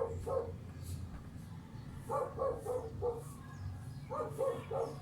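A dog barking in quick runs of short, high yaps.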